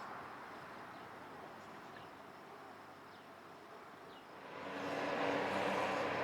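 Faint outdoor background, then about four and a half seconds in a train's noise swells up quickly as it comes along the tracks, with a steady hum under the rumble.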